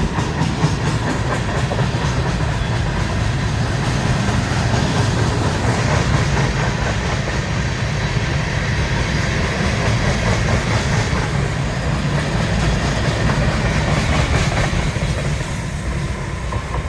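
Freight train rolling on the rails: a steady rumble with wheel clickety-clack, easing a little near the end.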